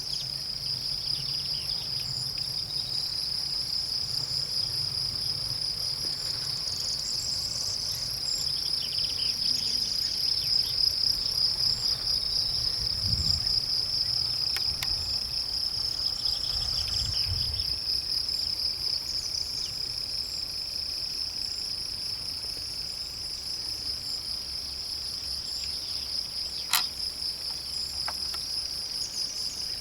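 Crickets trilling steadily: a continuous high, pulsing chirr that doesn't let up. A single sharp click sounds near the end.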